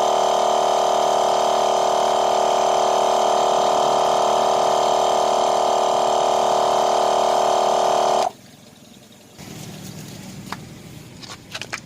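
12 V twin-cylinder portable air compressor running with a loud, steady drone, switched off abruptly about eight seconds in. A faint hiss and a few light clicks follow near the end.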